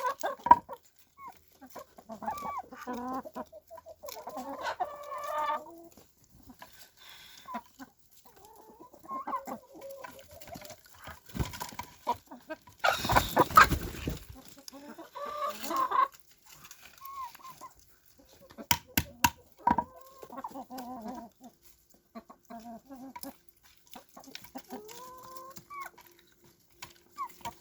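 Chickens clucking and calling on and off. A brief noisy rush about halfway through is the loudest moment, and a few sharp clicks follow soon after.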